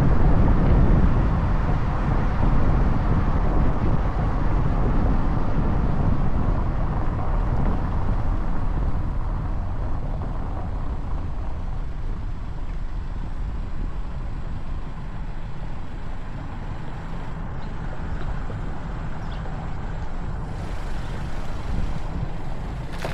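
Steady wind rush and road noise from a Bajaj Dominar 400 motorcycle riding along, gradually getting quieter over the stretch.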